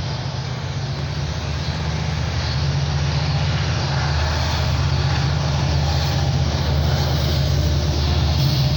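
Low rumble of an approaching train, growing steadily louder.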